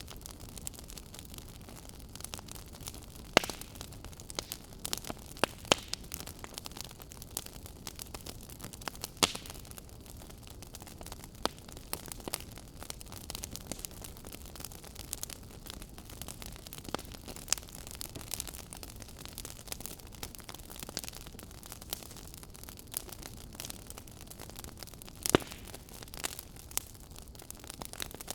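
Wood fire crackling in a fireplace: a steady low hiss with frequent irregular sharp pops and snaps, two of them louder, about three seconds in and near the end.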